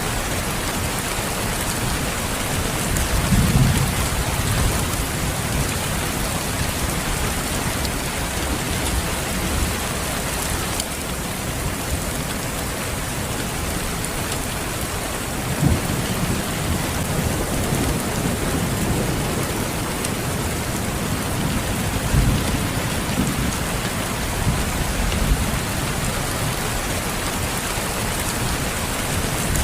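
Steady rain falling, with low rumbles of thunder swelling up several times: about three seconds in, around the middle, and twice more toward the end.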